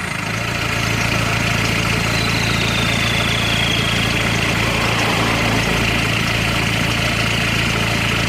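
LuAZ's 1.9-litre turbodiesel four-cylinder idling steadily through a straight-through exhaust with no muffler at all, made of 63 mm KAMAZ truck exhaust pipe.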